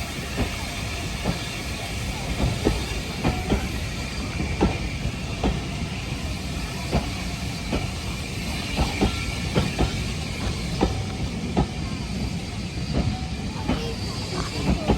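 A train running on the track: a steady low rumble with frequent irregular clicks and knocks from the running gear and rails.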